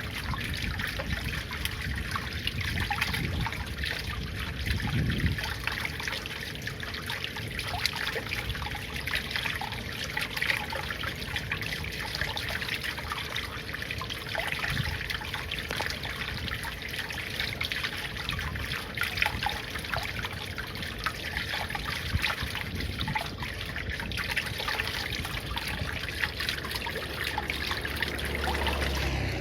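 Water trickling steadily, an unbroken run of small splashing sounds.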